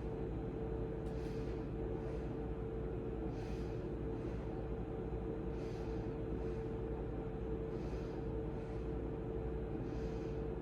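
A person breathing softly, one breath about every two seconds, over a steady hum.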